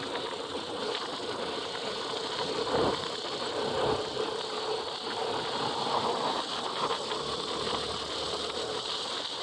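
Vehicles moving off and passing on a wet highway: steady engine noise with a hiss of tyres on wet road, and one louder pass about three seconds in.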